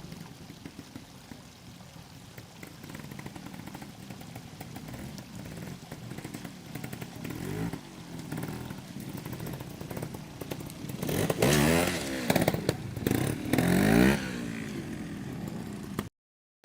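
Trials motorcycle engine revved in short bursts as the bike works through a section, its pitch rising and falling, loudest a little past the middle. The sound cuts off suddenly near the end.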